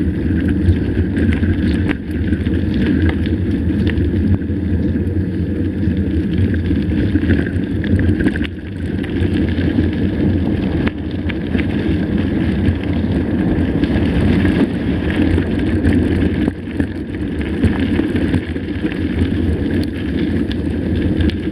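Mountain bike in motion on a dirt trail: wind buffeting the microphone over a steady rumble from the tyres, with scattered clicks and rattles from the bike over rough ground.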